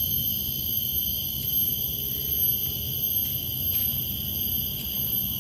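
Steady insect chorus, several high unchanging tones without a break, over a low steady rumble.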